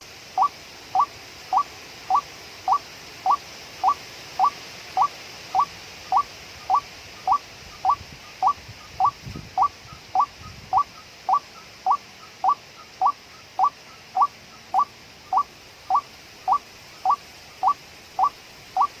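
White-breasted waterhen (ruak-ruak) call: a short rising note repeated at a perfectly even pace, a little under two a second.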